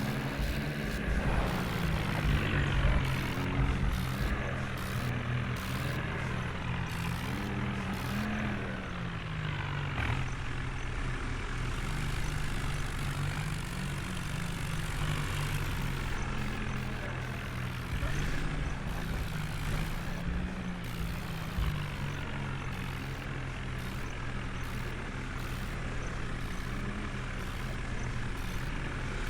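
New Holland tractor's diesel engine running under load as it pulls a fully loaded trolley, its pitch rising and falling slowly every few seconds.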